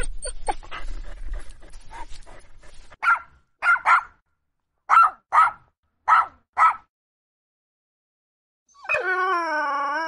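Dog yelping and whining, then barking seven short times (one bark, then three quick pairs). After a short pause a long, wavering howl starts near the end.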